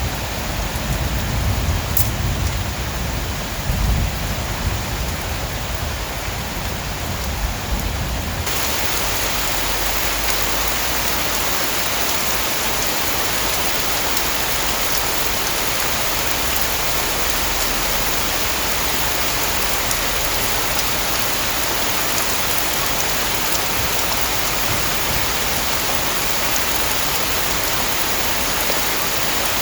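Heavy rain falling, a steady dense hiss. For the first eight seconds low rumbles sound under it; then the rain abruptly turns louder and fuller and stays steady.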